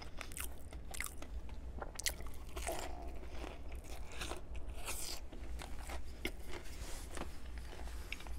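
Close-miked eating of a breaded fried chicken sandwich: irregular bites, crunches and chewing of the crispy coating.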